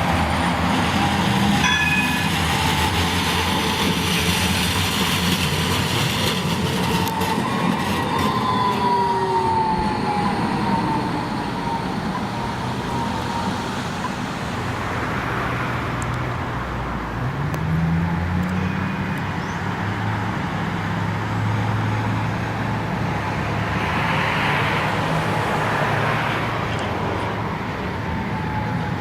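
Electric tram moving at a stop: rumble of steel wheels on rails, strongest in the first few seconds, with a falling whine about a third of the way in, then a steady low hum from a little past halfway.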